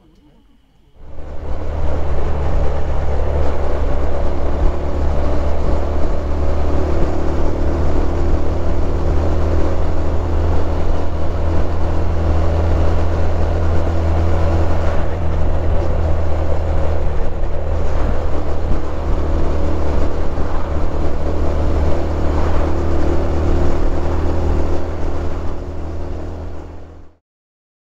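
Honda Super Cub 110's small air-cooled single-cylinder four-stroke engine running at a steady cruising speed, heard from the rider's position with heavy wind and road rumble. The sound starts about a second in and cuts off suddenly near the end.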